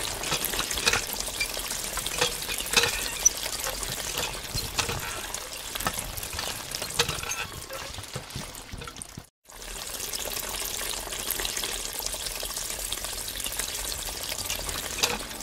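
A thin stream of water from a miniature hand pump's spout splashing into a small toy pond, with many small ticks and splashes. It cuts out for a moment about nine seconds in.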